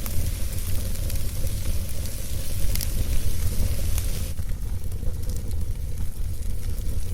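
Wood fire burning and crackling, with a few sharp pops over a low rumble. A high hiss fades out about four seconds in.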